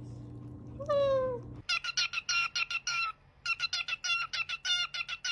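A parrot gives one falling call, then a fast run of short, high chirps, about five a second, with a brief pause partway through.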